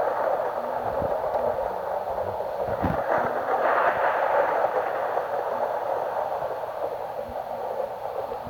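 Rolling thunder: a long, noisy rumble that swells about three to four seconds in and then slowly dies away.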